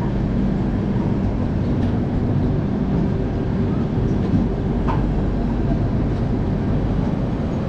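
Steady running noise of a passenger train rolling slowly through a station: a low rumble of the coaches with a faint hum and a few light clicks.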